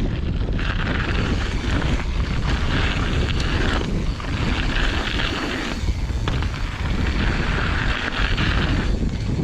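Strong wind buffeting the microphone, a steady low rumble, with a higher hiss that comes and goes in four stretches of a second or so.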